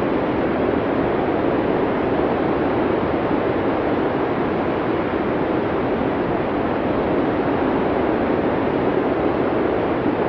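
Steady blizzard wind: an even, unbroken rushing noise with a dull, low-pitched tone and no gusts or separate events.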